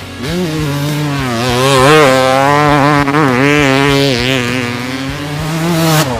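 Dirt bike engine revving up and holding a high, slightly wavering rev, then dropping off just before the end.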